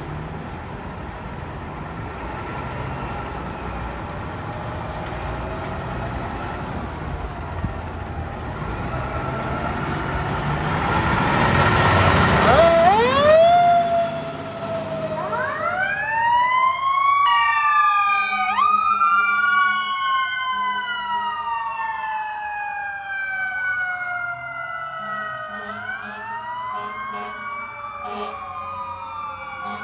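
A heavy fire truck's engine and road noise grow louder as it comes close, then about halfway through its siren winds up and several overlapping sirens start wailing, each sweeping up and gliding slowly down.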